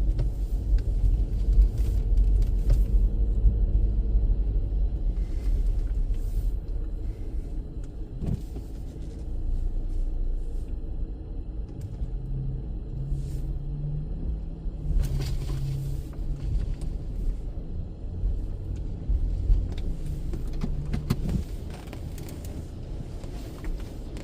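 Low rumble heard from inside a car's cabin at an automatic car wash, with a few brief knocks and hisses from the wash.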